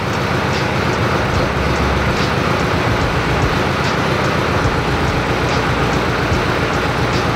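Air-cooled flat-four engine of a 1970 Volkswagen bus running steadily at idle.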